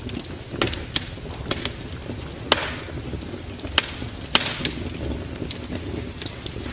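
Wood fire in a fireplace crackling, with irregular sharp pops over a steady low rumble. The loudest pops come about two and a half and four and a half seconds in.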